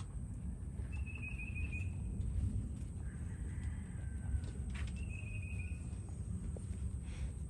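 Wild birds singing: a short, rapid trill twice, about four seconds apart, with softer falling whistled notes between them, over a steady low rumble.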